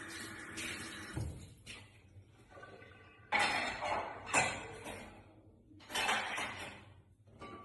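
Plates, glasses and cutlery clattering and clinking as dishes are handled, in two louder bursts of clatter partway through.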